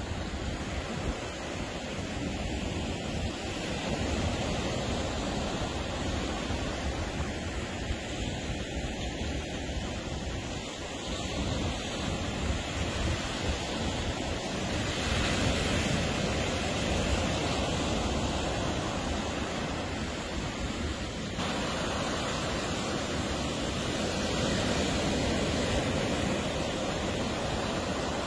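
Atlantic surf washing onto a sandy beach: a steady roar of breaking waves that swells and eases every few seconds, with wind rumbling on the microphone.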